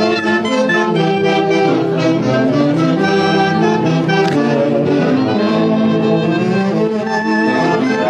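A saxophone-led festival orchestra, its horns playing a melody together in sustained notes that move in steps.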